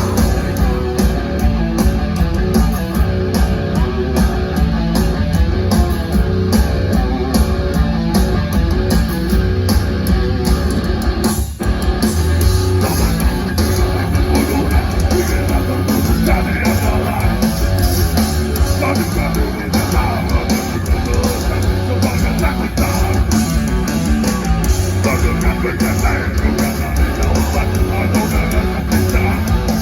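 Heavy metal band playing live, loud and dense, with distorted electric guitars to the fore, a steady driving beat and one brief break in the sound about eleven and a half seconds in.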